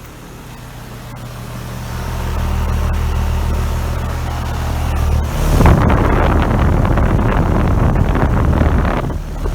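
2015 3-ton Carrier Comfort central air conditioner's outdoor condenser unit running, with a steady low hum that grows louder over the first couple of seconds. About halfway through, a rough, fluttering rush of air from the unit's fan joins in and buffets the microphone.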